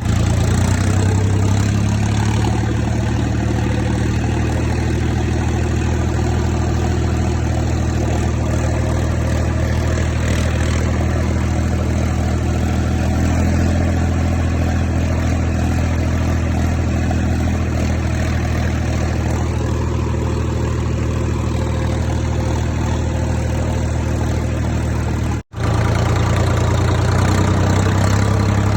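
Swaraj tractor's diesel engine running steadily, with a deep, even drone, while pulling a harrow. The sound drops out for an instant about 25 seconds in.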